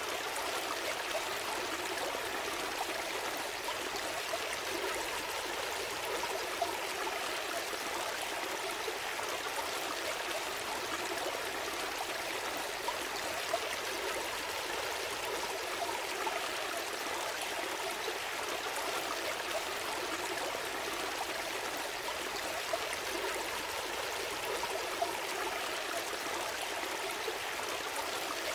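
Gentle stream flowing steadily, a constant rush of water with small splashes and trickles.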